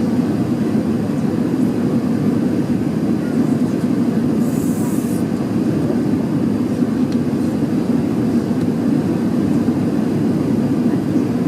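Steady jet engine and airflow noise of an Airbus A380-841 with Rolls-Royce Trent 970 engines, heard inside the passenger cabin. A brief high hiss sounds about four and a half seconds in.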